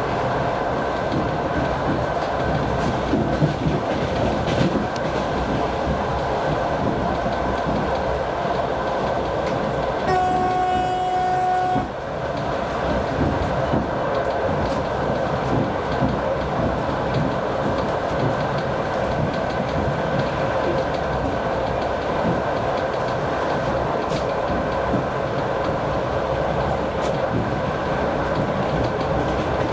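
TEP70 diesel locomotive hauling a train: its diesel engine running under steady load with the wheels clattering over rail joints, and one steady horn blast lasting about a second and a half, about ten seconds in.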